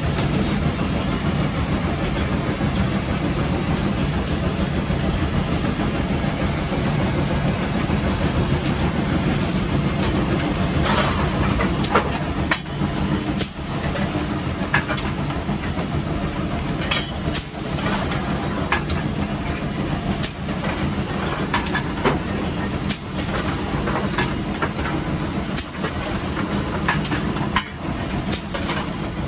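Steam locomotive running, heard from inside its cab: a steady rumble with hissing steam. From about eleven seconds in, irregular sharp clicks and knocks join it.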